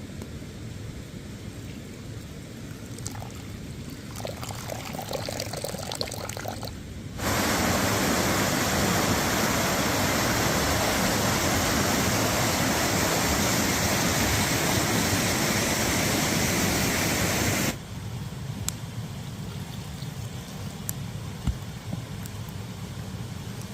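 Running water, a loud, even rushing hiss that starts abruptly about seven seconds in and cuts off just as abruptly about ten seconds later. Around it is a quieter low rumble, with scattered light ticks after the water stops.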